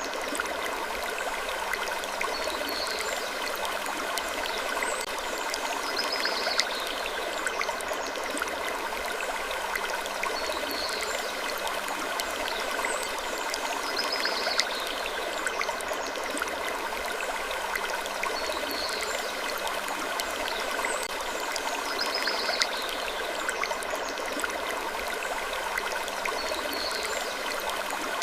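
Steady, even rushing hiss like running water. A short, soft high sound recurs about every two seconds on top of it.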